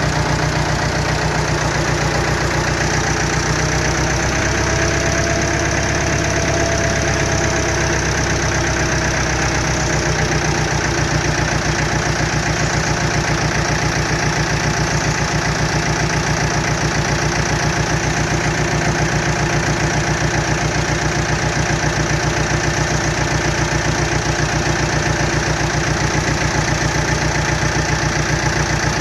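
Ford 6610 tractor's diesel engine running steadily with an even, fast pulsing beat; the engine has fuel-injection problems.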